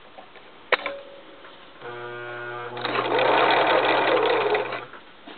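Viking 150 sewing machine: a sharp click, then the motor hums as it spins up and the machine sews at speed for about two seconds before stopping.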